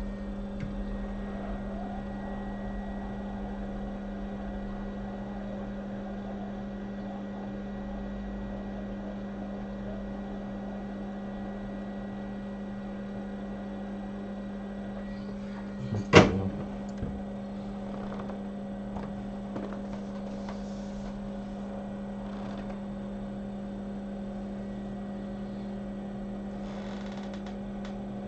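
Steady electrical hum with one strong low tone and overtones, and a single sharp click about sixteen seconds in.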